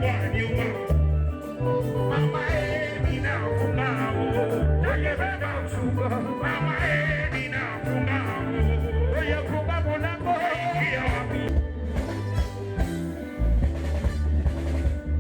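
Live Congolese band playing, with a lead voice singing over guitar and a pulsing bass line.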